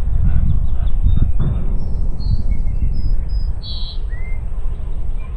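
Small birds chirping and calling over a low wind rumble on the microphone. A quick run of repeated chirps comes in the first second or so, then scattered short high notes follow, the loudest a little before the end.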